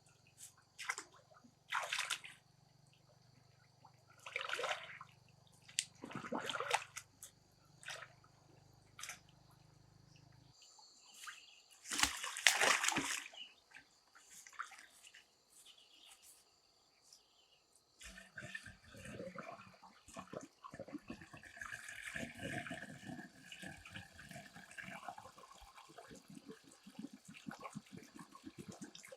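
Water splashing and sloshing in short bursts a second or two apart, the loudest a couple of seconds long near the middle; the background changes abruptly twice and is busier with splashing in the second half.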